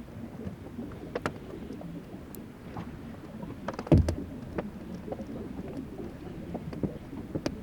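Fláajökull glacier ice melting: meltwater moving with scattered small clicks and pops, and one louder crack with a low thump about four seconds in.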